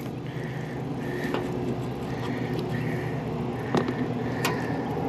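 Rooftop air conditioning unit running with a steady hum, a faint short chirp repeating about twice a second, and a few sharp clicks of metal tools on the unit's panels.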